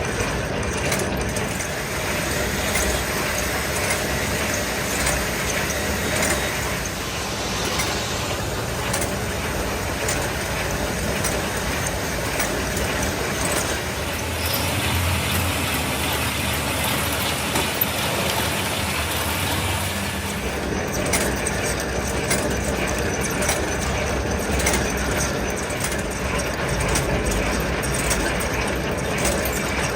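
Workshop machinery running steadily, a dense mechanical noise with no pauses; its low hum changes for a stretch in the middle.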